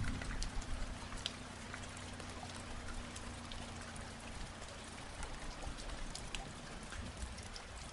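Rain falling, with many individual drops ticking irregularly over a steady patter. A faint steady low hum runs beneath it and stops about four and a half seconds in.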